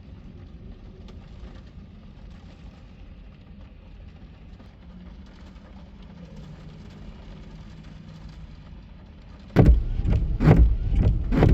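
Steady low rumble with a faint rain hiss, heard from inside a parked car in a rainstorm. Near the end come several loud knocks and rustles.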